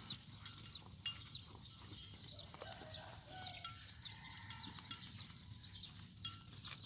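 Faint outdoor ambience of scattered small clinks and short high chirps while cattle and water buffalo are herded past.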